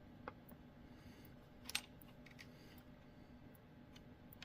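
Faint clicks and taps of small chainsaw parts being handled and fitted by hand, a handful of separate sharp clicks with the loudest pair about a second and three-quarters in, over near silence.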